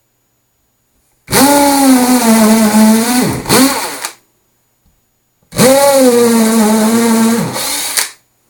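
Electric drill with an 8.5 mm bit boring a screw hole through a wooden amp cabinet, its motor whining steadily in two runs of about three seconds each. Near the end of the first run the pitch dips and comes back up.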